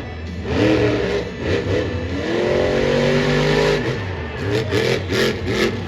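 Monster truck engines, supercharged alcohol-burning V8s, revving hard. The pitch climbs over a second or so midway, then comes in short sharp blips near the end.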